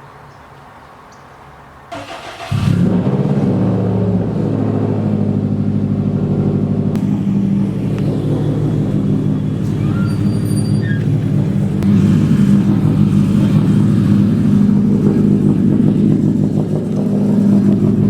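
Subaru WRX STI's turbocharged flat-four, tuned to about 500 wheel horsepower, cranks briefly and catches about two seconds in. It then idles loud and steady on a cold start to warm up, the idle getting a little louder about two-thirds of the way through.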